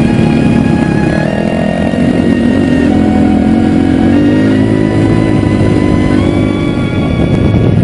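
Dirt bike engine running loudly, its pitch stepping up a few times.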